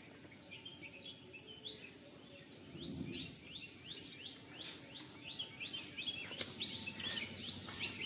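Small bird giving thin, high chirps in a rapid series, sparse at first, then about two or three a second from about three seconds in.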